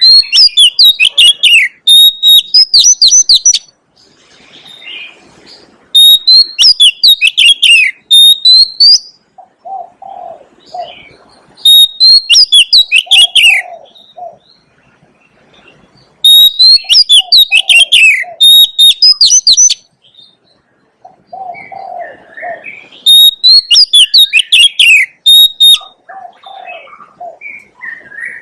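Oriental magpie-robin singing: loud whistled song phrases of rich, sliding notes, repeated five times about every five to six seconds, with softer low cooing notes in the gaps.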